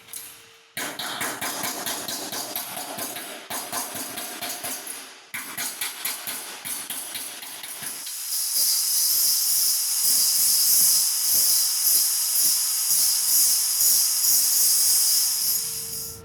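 Stick-welding arc crackling and sizzling on thin galvanized steel pipe. The arc breaks off briefly twice, then burns louder and steadier with a sharp hiss over the crackle for the second half.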